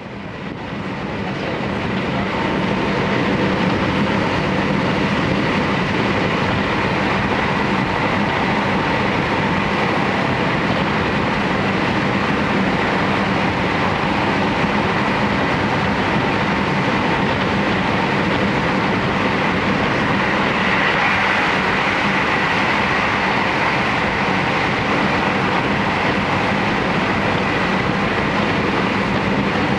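Interior running noise of a JR Hokkaido Series 711 electric train: a steady rumble of wheels on rail with a faint tone above it. It fades in from silence over the first couple of seconds.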